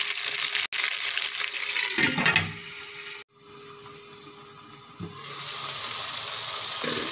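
Watery tomato and onion masala sizzling in ghee in a nonstick wok on low heat. About three seconds in, the sizzle drops to a faint hiss under a glass lid, then comes back after a knock about five seconds in.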